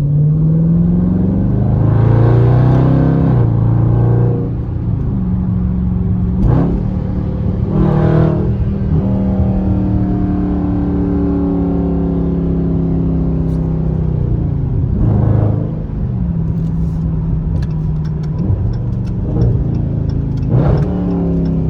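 2020 Dodge Charger Scat Pack's 392 (6.4-litre) HEMI V8 under way: the engine note climbs under acceleration and drops back at gear changes, then holds a steady cruise between a few more rises and falls.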